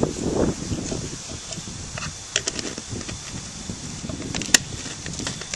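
Wind buffeting the microphone, heaviest in the first second, with a few light clicks and taps scattered through, the sharpest one near the end.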